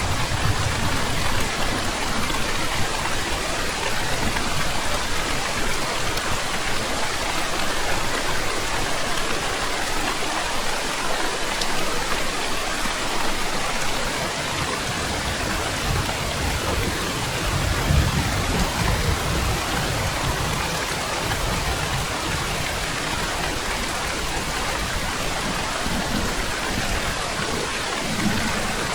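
Steady heavy rain falling, with low rumbles of thunder rising and fading near the start and again around the middle.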